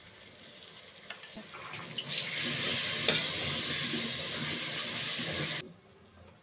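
Spatula stirring curd and herbs into a sizzling tomato masala in an aluminium pressure cooker pot. The frying hiss starts about two seconds in, loud and even with scraping and stirring, and cuts off suddenly near the end.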